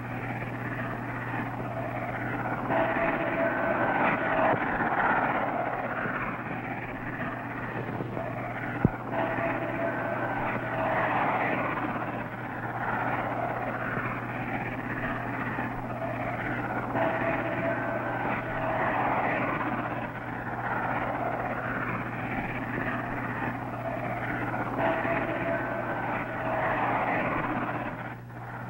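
A train running past close by: a steady rumbling roar with brief high squealing tones that come back about every seven seconds, over a steady low hum.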